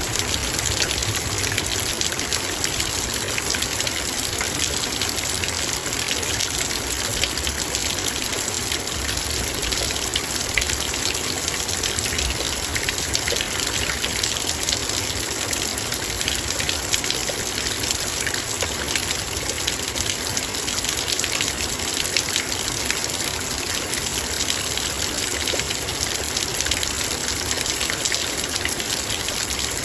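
Heavy rain falling steadily, dense raindrops pattering on a metal bowl with many small ticks over a constant hiss of rain.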